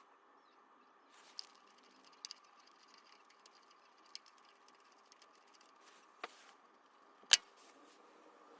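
Light clicks and taps of tools and parts being handled during timing belt work, over a faint steady hum, with one sharp, loud click a little over seven seconds in.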